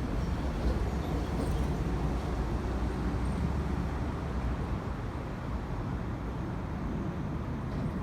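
Steady rumble of road traffic, an even low noise with no single event standing out.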